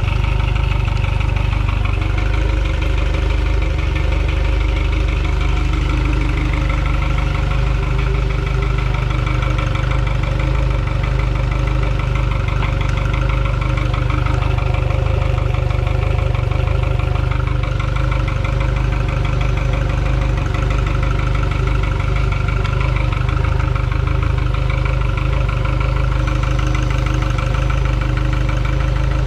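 2003 Mercury 115 hp EFI four-stroke outboard motor, an inline four-cylinder, running steadily at idle.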